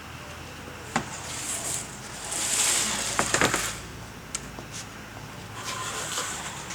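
Handling noises: a sharp click about a second in, then rustling and a quick cluster of clicks and knocks around three seconds in.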